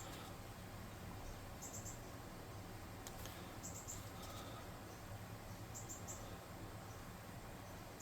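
Faint high-pitched chirps in short groups of three or four, repeating about every two seconds, over a low steady hum.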